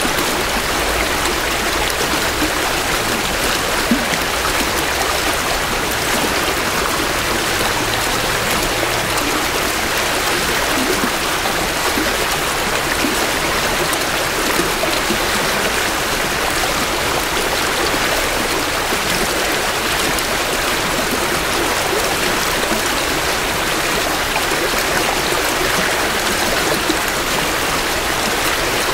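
A small creek in spring runoff, flowing and burbling over rocks with a steady rushing. It is picked up close, from about two feet from the water's edge.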